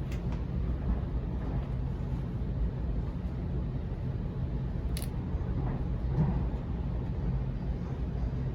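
Cabin noise of a Sydney Trains Waratah electric train running between stations: a steady low rumble of wheels on track, with one sharp click about five seconds in.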